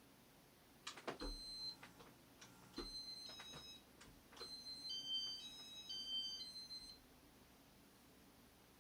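Button clicks on a Casablanca Inteli-Touch fan control, each answered by short electronic beeps at a few different pitches, from about one second in to about seven seconds in.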